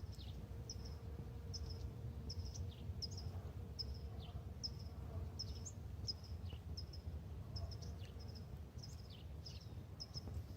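Small songbirds chirping: many short high chirps, some dropping in pitch, repeated two or three times a second, over a steady low outdoor rumble.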